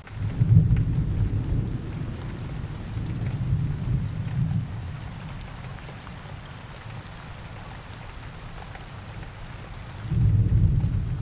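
Steady rain with two rolls of thunder. One rumbles in at the start and fades over about five seconds; a second begins near the end.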